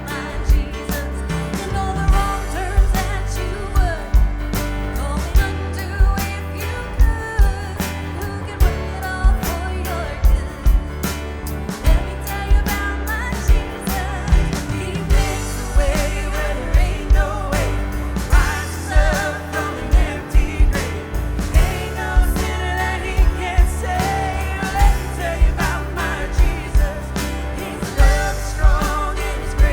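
Live worship band playing with sung vocals: a steady drum beat, bass and keys under the singing, with the band filling out about halfway through.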